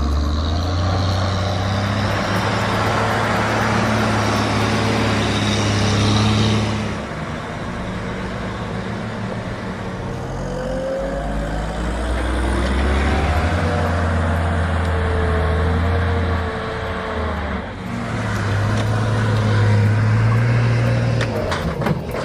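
Heavy truck engine running under load, its note rising and falling in several stretches.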